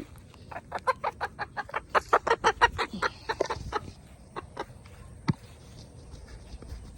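Easter Egger chicken clucking in a fast run of short calls, about five a second, for about three seconds, then a few scattered clucks. It is the hurried clucking of a hen being chased.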